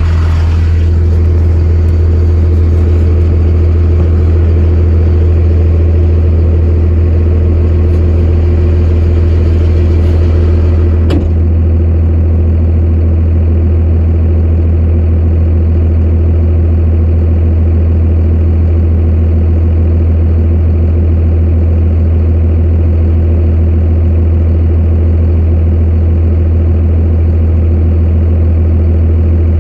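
Motor vehicle engine running at a steady, even drone, with one short click about eleven seconds in.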